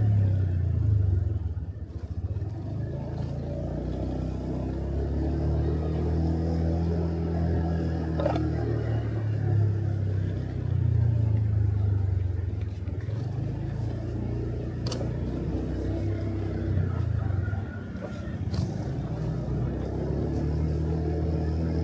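Small motorcycle engine running under way, its pitch rising and falling with the throttle and dropping off briefly twice, with a few sharp clicks.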